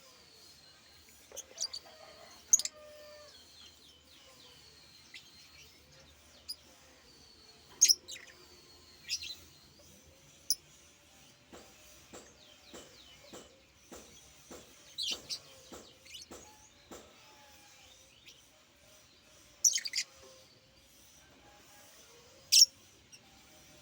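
Pet bird chirping: about five loud, sharp chirps a few seconds apart, between softer repeated whistled notes, with a run of light clicks partway through.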